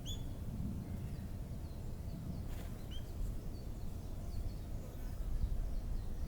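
Small birds chirping in short, high notes scattered throughout, with two clearer chirps at the start and about three seconds in, over a steady low rumble of outdoor background noise.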